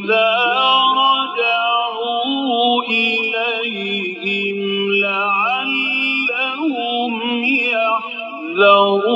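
A male reciter chanting the Quran in the melodic Egyptian mujawwad style, drawing out a long ornamented phrase with many pitch turns over a steady low tone.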